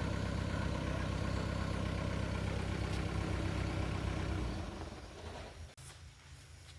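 Truck engine running steadily with a low hum, then falling away about four and a half seconds in, leaving a much quieter background.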